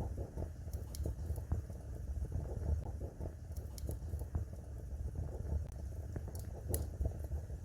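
Fire in a fireplace crackling steadily over a low rumble, with a few sharper snaps scattered through.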